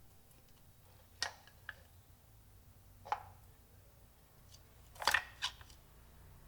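Short, sharp clicks and knocks of kitchen utensils during food preparation: a few separate taps, with the loudest little cluster about five seconds in.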